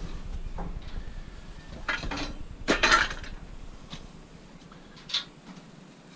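Pieces of scrap metal clanking and clattering as they are handled, a few separate knocks with the loudest about three seconds in.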